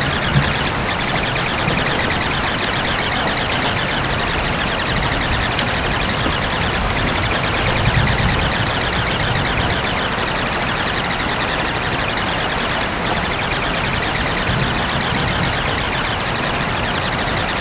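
Steady rain-sound recording: a continuous, even hiss with a faint low swell now and then.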